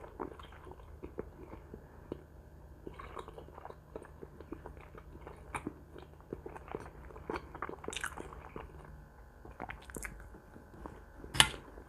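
A person chewing and biting pieces of cooked pork close to the microphone: faint, soft, wet chewing clicks, with one louder sharp sound near the end.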